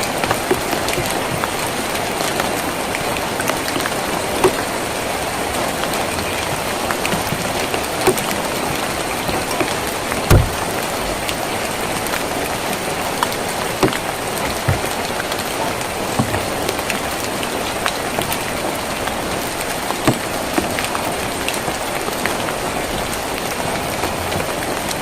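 Steady rain falling on a tin roof, with a sharp louder drop striking now and then.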